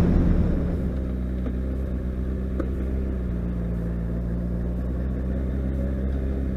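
Motorcycle engine idling steadily, the rush of riding wind dying away in the first second as the bike comes to rest.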